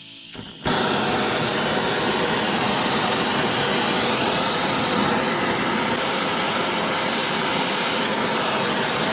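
Gas blowtorch flame burning steadily, coming on abruptly just over half a second in. It is heating the steel speedo drive and a nail so they can be built up with brazing rod.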